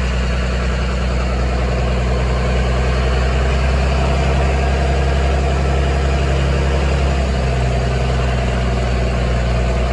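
A vehicle's engine running steadily at low revs, its note shifting slightly about seven seconds in.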